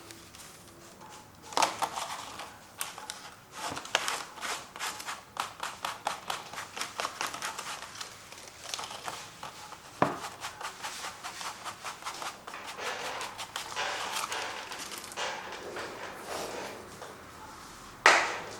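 Acrylic paint being worked onto a canvas in quick scratchy strokes, several a second, with a few sharp knocks of the tool or canvas. The loudest knock comes near the end.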